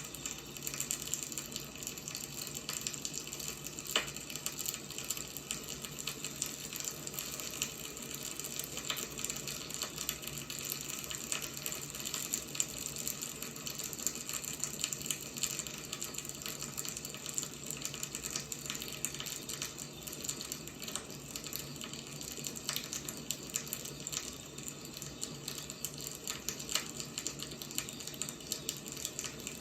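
Wood fire burning with steady crackling and frequent small pops, a sharper pop about four seconds in.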